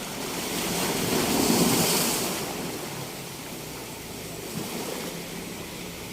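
Ocean waves breaking on a beach: one wave swells and crashes about a second and a half in, then the surf washes back.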